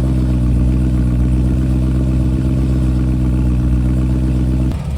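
A car engine idling steadily, loud with a deep, even hum. It breaks off abruptly just before the end.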